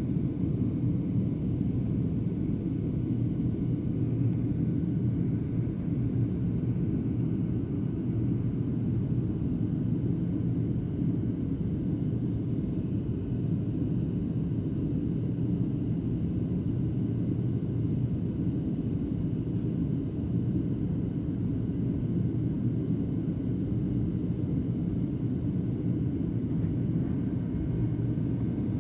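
Airliner cabin in flight: steady, low rumble of the jet engines and the airflow over the fuselage, unchanging in level.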